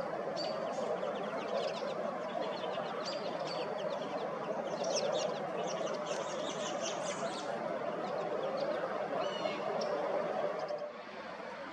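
Many small songbirds chirping and twittering at once, overlapping quick notes and trills. Under them runs a steady low background noise that drops away near the end.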